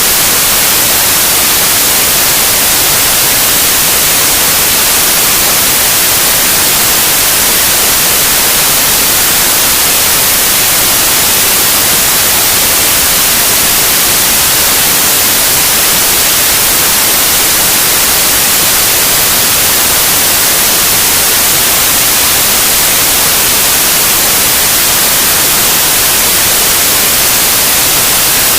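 Loud, steady white noise: an even, unchanging hiss, brightest in the treble.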